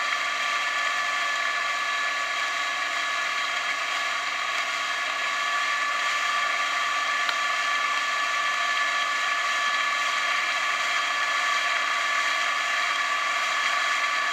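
A motor running steadily with a high whine over a constant hiss.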